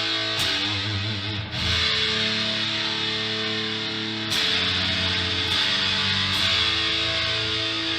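Yamaha Pacifica electric guitar played through an amp: chords strummed and left to ring, restruck about one and a half seconds and four seconds in, with a bit of sizzle on top.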